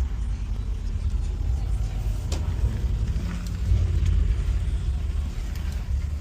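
Mercedes-AMG C63's twin-turbo V8 engine running with a steady low rumble. New ignition coils and spark plugs are fitted, which cured the cylinder 2 misfire.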